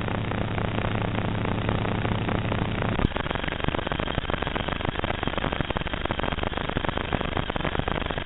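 Onboard audio from a small 4-inch FPV quadcopter in flight: a steady rushing noise of propellers and wind with a low hum. About three seconds in there is a click, after which the hum drops out and the noise turns rougher and choppier.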